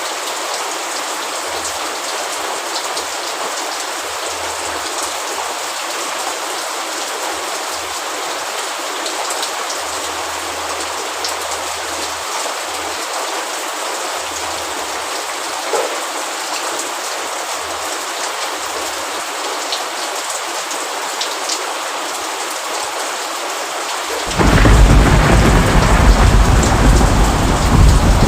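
Steady rain falling, and near the end a loud roll of thunder that comes in suddenly and keeps rumbling.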